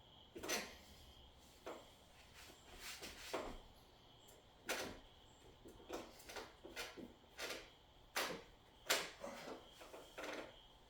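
Irregular handling noises: about a dozen short knocks and scraping sounds at uneven intervals, with a faint steady high tone underneath.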